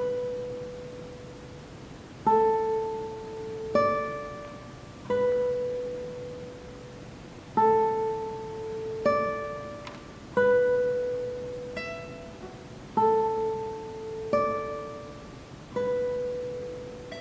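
A classical guitar quartet playing sparse single plucked notes, about one every second and a half, each struck sharply and left to ring out and fade before the next.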